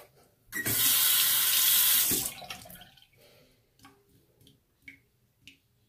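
Bathroom sink tap running in one burst of about a second and a half, then shut off, followed by a few faint ticks.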